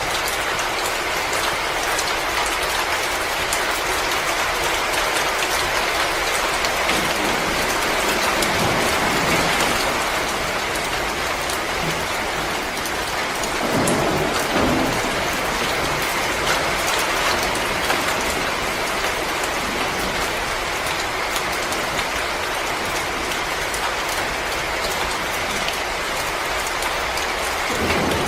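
Wood fire in a fireplace crackling steadily, a dense run of small pops and snaps, with a short deeper rush about halfway through.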